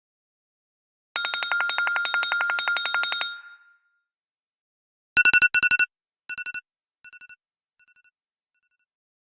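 Two iPhone ringtones in turn. First a fast electronic trill lasts about two seconds and fades out. Then a pair of quick bursts of rapid high beeping comes back four times as fading echoes.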